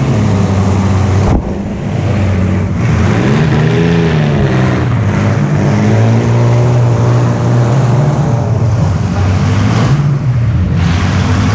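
Vehicle engine running hard under a loud rush of noise. It dips briefly about a second and a half in, then revs up and back down around four seconds in.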